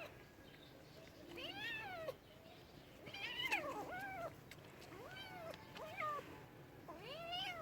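Domestic cat meowing, about six meows in a row, each rising then falling in pitch, with short gaps between them.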